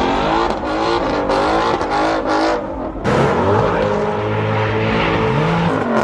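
A car engine revving through its exhaust, its pitch climbing and falling repeatedly. After a short drop just before the halfway point, it settles to a lower note and then climbs again near the end.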